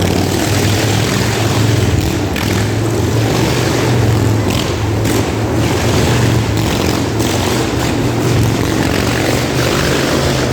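Several motorcycle engines running loud and steady as the bikes circle the wall of death.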